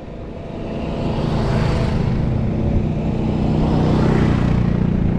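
Motor vehicle engine and road noise, growing louder about a second in and then holding steady.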